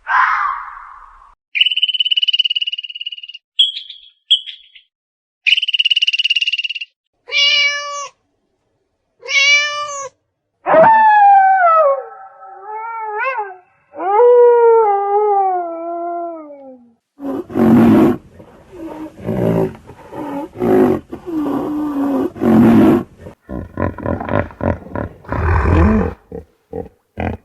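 A series of separate animal calls: several rising-and-falling, meow-like cat cries in the middle, then rough growling, and a fast pulsing growl near the end.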